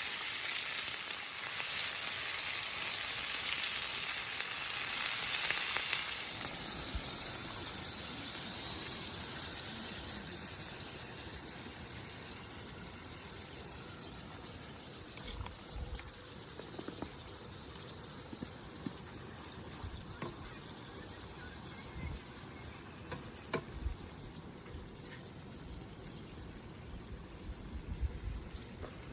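Food sizzling in a hot cast-iron frying pan over a campfire. The sizzle is loud for about the first six seconds, then slowly dies down, with a few sharp pops or clicks later.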